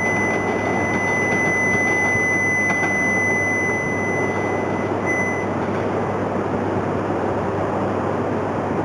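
Coupled E3 and E2 series Shinkansen train running away along the track with a steady rushing noise. A steady high-pitched tone sounds for about five seconds, then comes back once briefly.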